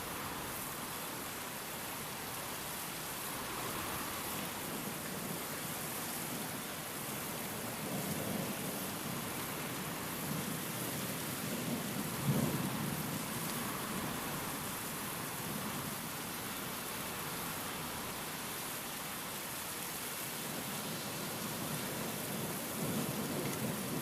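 Steady heavy rain with low rolls of thunder, a sharper crack of thunder about halfway through and another roll building near the end.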